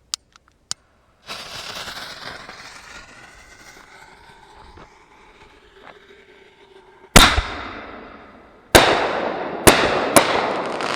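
Aerial firework ball shells being fired: a hiss starts about a second in and slowly fades, then four sharp bangs of the shells bursting come in the last four seconds, each trailing a long rolling echo, the first the loudest.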